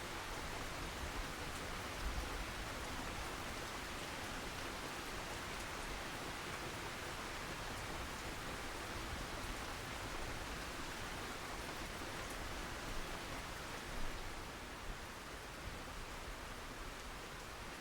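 Steady rain falling, an even hiss with a few slightly louder drops, easing a little about fourteen seconds in.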